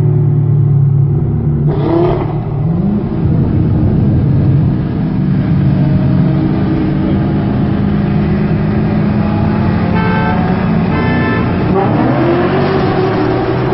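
Car engine pulling hard under acceleration, its pitch rising about three seconds in and again near the end.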